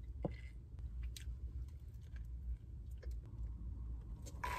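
Faint mouth sounds of eating and drinking: chewing a croissant and sipping coffee from a paper cup, with a few soft clicks, over a low steady hum.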